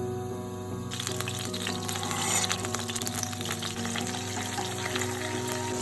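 Food sizzling and crackling in a hot pan for a stir-fry, starting suddenly about a second in, over background music.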